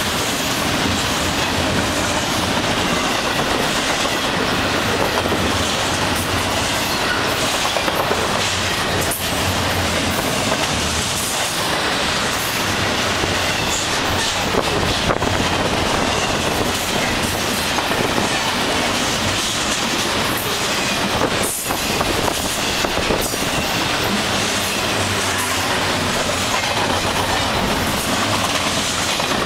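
Double-stack intermodal freight train's container cars rolling past steadily: a continuous rumble and hiss of steel wheels on rail, with scattered clicks of wheels crossing rail joints.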